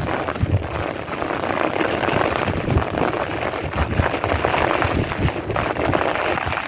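Heavy desert monsoon rain pouring down, a steady dense hiss.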